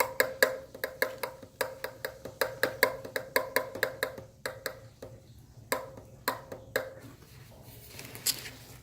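A quick run of sharp, hard clicks or taps, about three to four a second, each with a short ringing note. It thins out to a few scattered clicks after about seven seconds. The sound comes from hard plastic parts being handled while a microphone and camera mount are fitted to a helmet.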